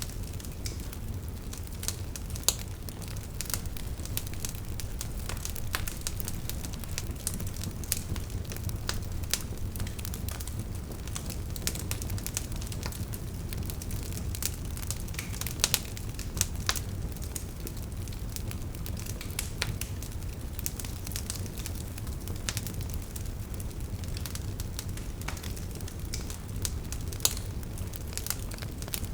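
Burning logs in a wood fire crackling: irregular sharp snaps and pops over a steady low rumble of the flames, with a few louder pops.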